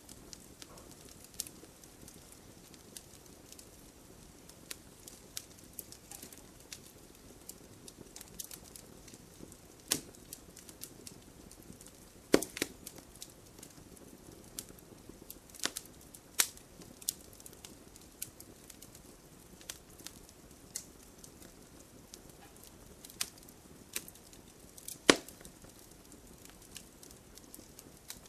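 Wood fire burning in a fireplace: steady soft hiss of the flames with irregular crackles and a few sharp, louder pops as the firewood burns.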